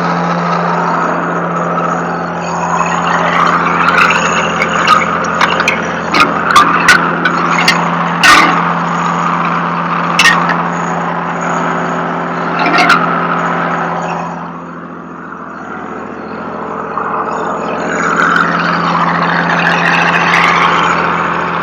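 A truck engine running steadily, with scattered sharp metallic clanks and knocks, the loudest about eight seconds in.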